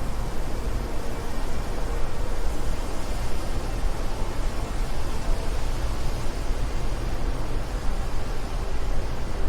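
Steady wind, a continuous rushing noise heaviest in a low rumble, with no gusts or breaks.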